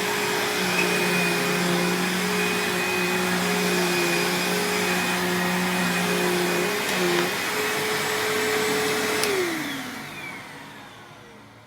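2003 Bissell CleanView Powertrak (6590) upright vacuum running steadily, its motor sounding clean. About nine seconds in it clicks off and the motor winds down with a falling whine, fading out.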